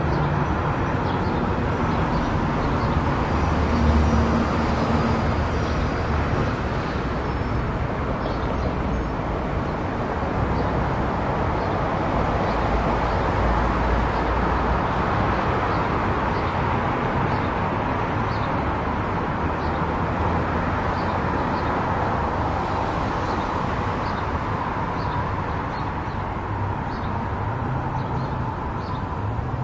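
Car travelling at highway speed: steady tyre and road noise with a low engine and drivetrain rumble, and faint light ticks now and then.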